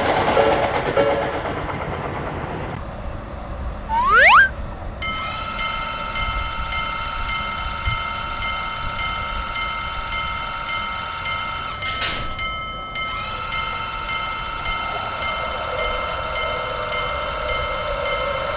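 Electric train sounds: a short rising whistle about four seconds in, then a steady high whine of several tones that drops out briefly near twelve seconds and resumes.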